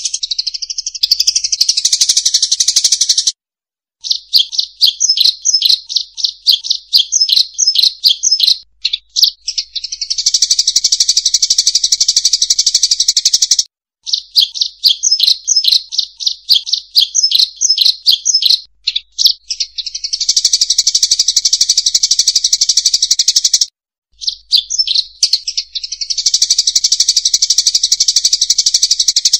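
Munia (emprit sawah) lure call: a loud recording of the small rice-field finches, with runs of quick repeated chirps alternating with dense, continuous twittering, the pattern starting over after short breaks about every ten seconds.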